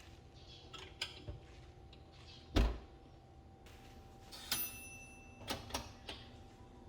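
Light knocks and clicks from household things being handled, the loudest a dull thud about two and a half seconds in and a click with a brief metallic ring a little later, over a faint steady hum.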